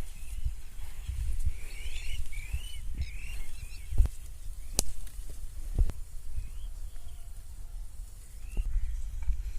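Small birds chirping in short rising calls, thickest in the first few seconds and sparser later, over a low rumble. A few knocks and one sharp click come near the middle.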